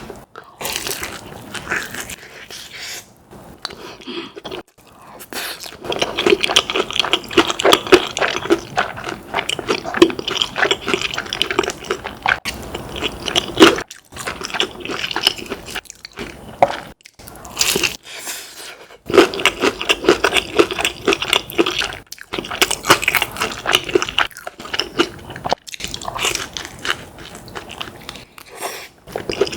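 A person chewing and crunching crisp food close to the microphone, in long runs of rapid crunchy bites and chews with short pauses between them.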